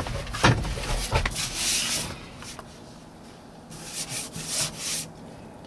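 Irregular scuffing and rubbing noises in short bursts, with three quick ones close together near the end.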